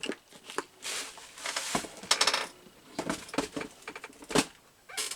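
Small metal brads clicking and clinking together as they are handled and picked over, with a few brief rustles in between.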